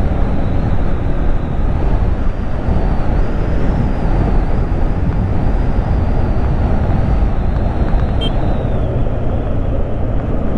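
Motorcycle running at riding speed, a steady engine rumble mixed with wind rushing over the rider's microphone.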